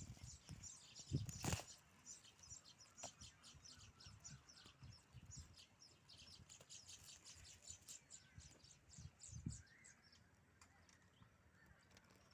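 Faint, rapid high chattering of a colony of baya weaver birds: many short chirps close together, thinning out after about nine seconds. A single sharp knock about a second in.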